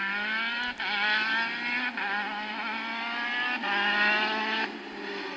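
Rally car engine accelerating hard through the gears, its pitch climbing after each of three quick upshifts, then falling away as the driver lifts off near the end.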